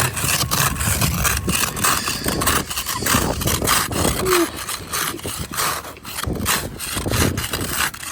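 Ice and frozen snow being scraped off in rapid, irregular strokes.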